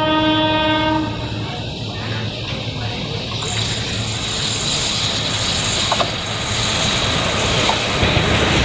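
Electric locomotive horn sounding a steady chord that cuts off about a second in. It is followed by an express train running past, with wheels clacking over the rail joints as the noise grows louder.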